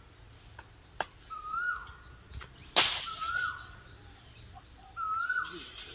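A bird repeats the same short whistled call three times, each one rising, holding briefly, then slurring downward, about every one and a half to two seconds. A sharp crack a little under three seconds in is the loudest sound, with a few lighter clicks and a brief rustle of leaves near the end.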